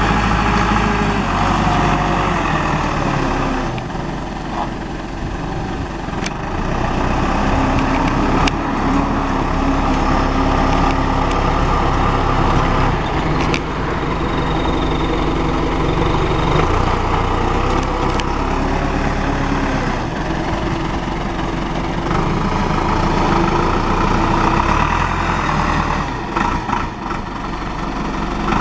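John Deere 5525N tractor's four-cylinder diesel engine running, its engine speed shifting up and down now and then, with a few sharp clicks.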